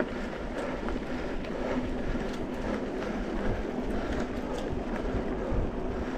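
Mountain bike rolling along a dirt trail: steady tyre and wind noise with scattered small clicks and rattles from the bike.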